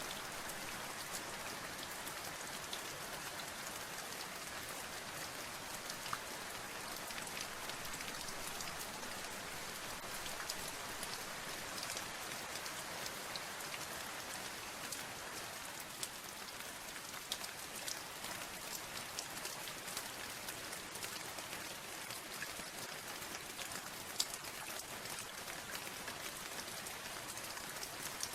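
Steady rain falling, with many separate drops ticking on a hard surface and now and then a louder single drop.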